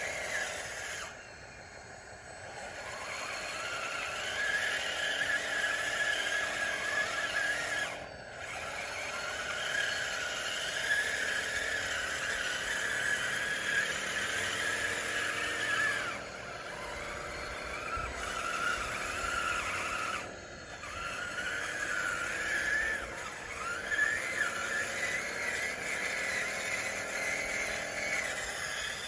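Scale RC bulldozer's electric motors and gearboxes whining while it works, the pitch rising and falling with throttle. The whine stops briefly a few times, then picks up again.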